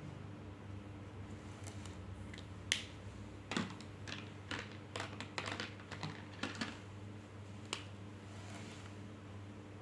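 A dozen or so irregular, sharp clicks and taps of small hard objects, bunched between about three and eight seconds in, over a steady low hum.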